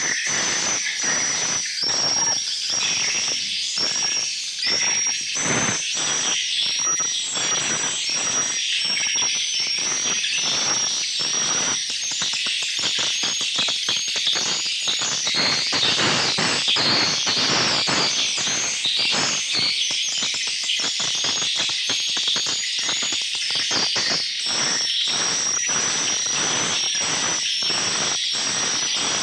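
A dense chorus of swiftlets twittering, with repeated high chirps over a constant stream of sharp echolocation clicks, several a second.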